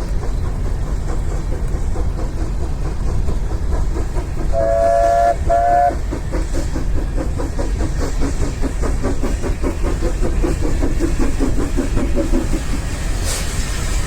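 A train running close by with a steady low rumble, giving two short toots about five seconds in, followed by a rhythmic beat lasting several seconds.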